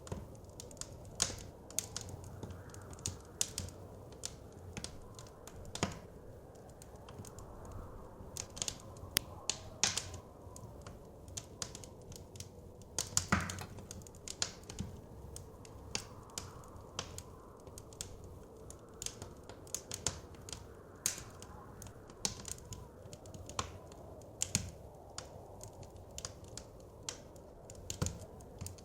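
Wood fire crackling in a fireplace: irregular sharp pops and snaps, several a second, some louder than others, over a low steady rush of blizzard wind.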